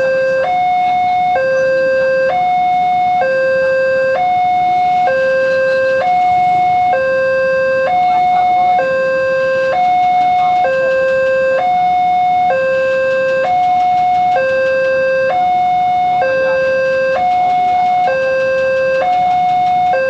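Electronic warning alarm of a railway level crossing sounding continuously in a slow two-tone alternation, a lower and a higher tone each held just under a second. It signals that a train is approaching and the barrier is closed.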